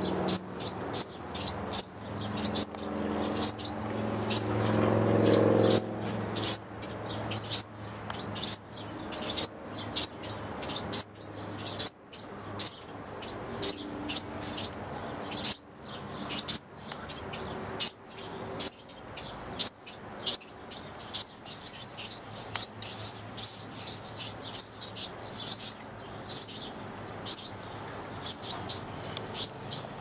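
Small songbird chirping: a steady string of short, high, sharp chirps about two a second, running together into a faster chatter from about 21 to 26 seconds in.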